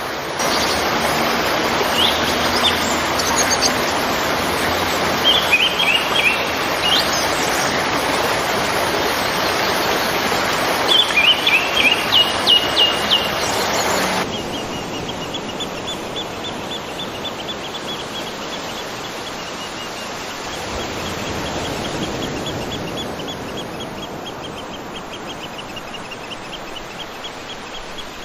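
Waterfall rushing steadily, with birds chirping in short bursts over it. About fourteen seconds in, the sound cuts to a quieter, duller stretch of falling water, where a bird repeats a short high note over and over.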